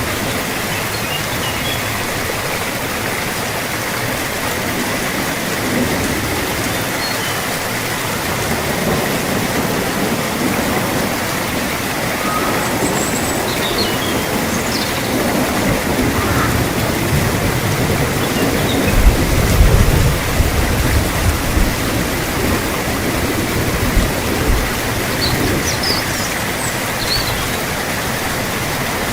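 Steady heavy rain hiss, with a low rumble of distant thunder swelling past the middle, peaking about two-thirds through and fading away.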